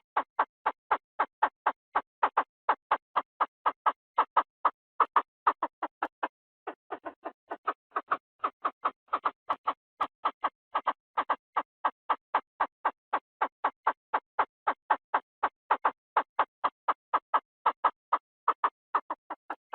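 Chinese francolin calling, a rapid even series of short calls at about four a second, with a brief break about six seconds in. It is a decoy-call recording of the species used to lure the birds.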